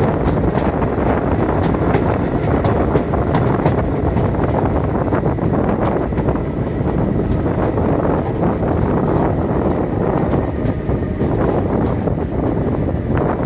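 Passenger train running on the line, a steady rumble of wheels on track mixed with wind on the microphone, with faint scattered clicks.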